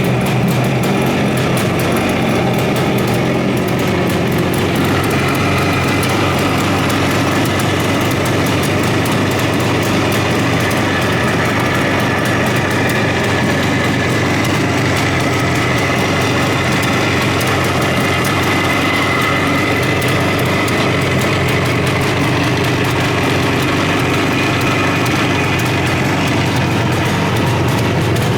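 Suzuki T500 (GT500) air-cooled two-stroke parallel-twin motorcycle engine running steadily at idle.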